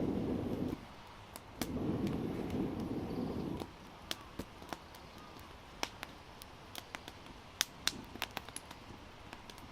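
Wood fire crackling, with sharp irregular pops and snaps. A low rushing noise cuts out under a second in, comes back, then stops for good about three and a half seconds in.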